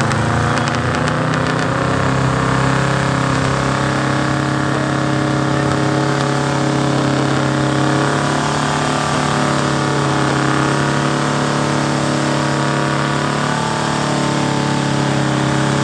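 Pickup truck engine held at high, steady revs under full load, pulling a weight sled in a street gas truck pull.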